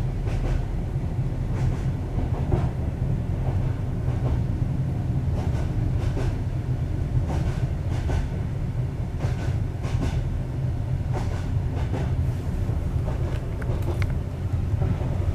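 Passenger train running, heard from inside a sleeper car: a steady low rumble with irregular clacks and knocks from the wheels and carriage.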